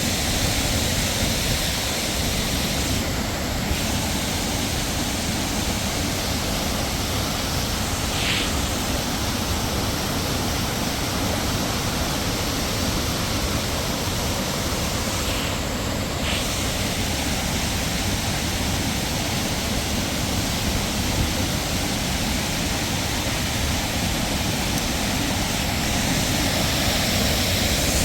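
Steady rush of a waterfall's falling water, an even noise with no pauses, with a short faint high sound about eight seconds in.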